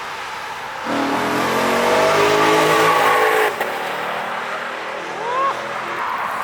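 Lexus RC F's 5.0-litre V8 through a TOM'S aftermarket exhaust, revving up hard about a second in with a rising pitch, then cutting off abruptly as the throttle is lifted. A shorter, quick rising rev follows near the end.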